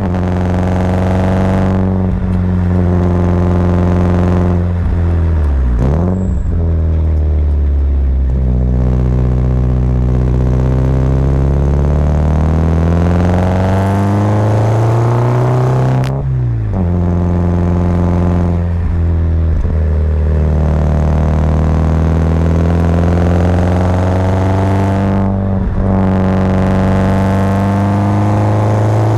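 Subaru Impreza WRX's turbocharged flat-four boxer engine pulling uphill through a five-speed manual. The revs climb slowly and drop sharply at each gear change or lift, several times, with the clearest shift about sixteen seconds in.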